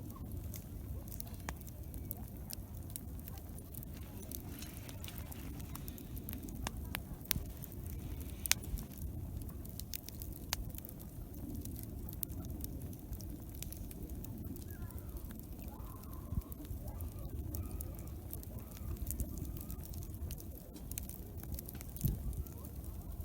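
Wood campfire crackling, with scattered sharp pops over a steady low background rumble.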